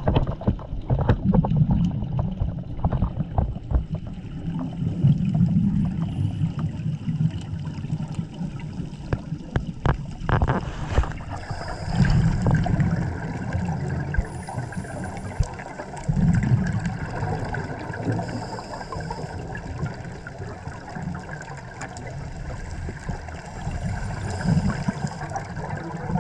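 A scuba diver breathing through a regulator underwater: exhaled bubbles gurgle loudly every few seconds, with quieter hiss and small clicks in between.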